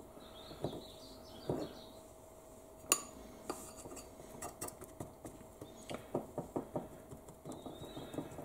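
Metal fork clinking and scraping against ceramic bowls while a steak is dredged in flour, with one sharp clink about three seconds in and a run of light taps after it.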